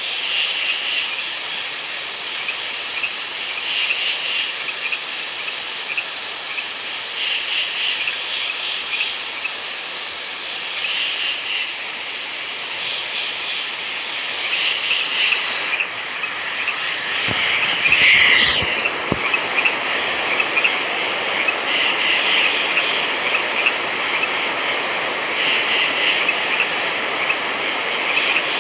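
Night chorus of frogs: a steady, dense trilling with louder pulsed calls repeating about every three and a half seconds. Around eighteen seconds in, a louder call with a falling sweep stands out, along with a few low knocks.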